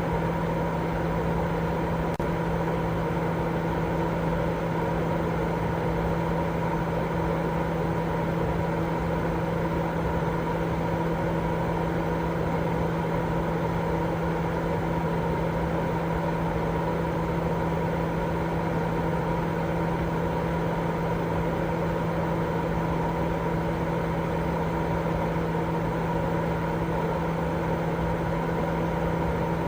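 Continuous sleep-aid noise: a steady, even rushing with a constant low hum under it, the level never changing.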